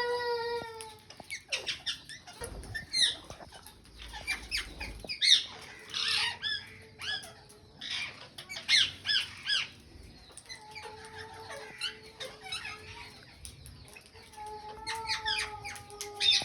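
Alexandrine and Indian ringneck parakeets calling: a busy run of short, harsh squawks and screeches, with a few longer held whistled notes about two thirds of the way in and again near the end.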